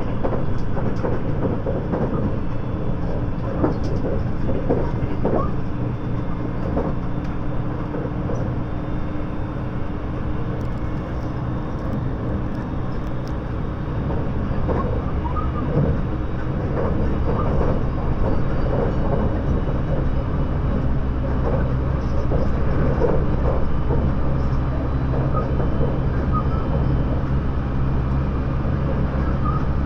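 Interior running noise of a JR 681-series limited express in its motor car, MoHa 681-1. There is a steady low rumble of wheels on rail with a humming drone underneath, growing a little louder about halfway through.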